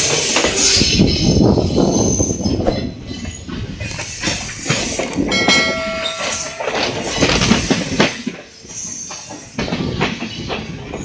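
Passenger trains running on adjacent tracks, heard from a moving coach: a steady rumble of wheels on rail with repeated knocks over the joints. A short high tone sounds about halfway through.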